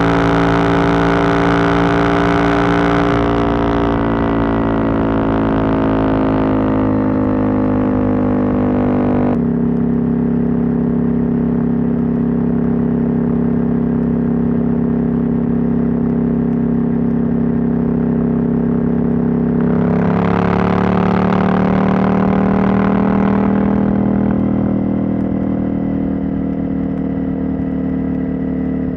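Husqvarna Norden 901's parallel-twin engine, its catalytic converter removed, running under way. The engine note sinks slowly for the first several seconds and changes abruptly about a third of the way in. It then holds a steady cruise before revving up about two-thirds of the way through and easing off near the end.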